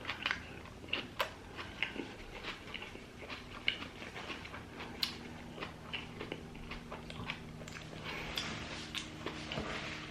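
Close-up mouth sounds of a person chewing a bite of hamburger: irregular soft, wet clicks and smacks.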